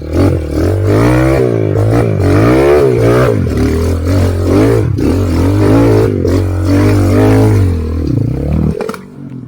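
Motorcycle engine being revved, its pitch rising and falling again and again over a steady low drone, cutting off suddenly near the end.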